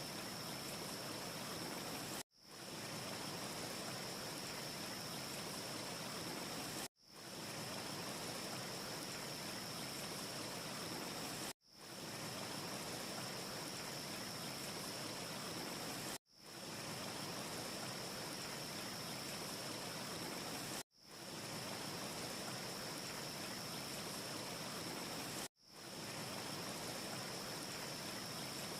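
A steady, even rushing noise with a faint high whistle in it, from a short looped ambience track: it cuts out and fades back in about every four and a half seconds, six times. No fire crackle stands out.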